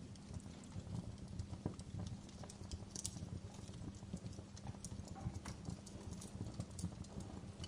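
Wood fire crackling in a fireplace: irregular sharp pops and snaps over a steady low rumble of burning, with one louder pop about three seconds in.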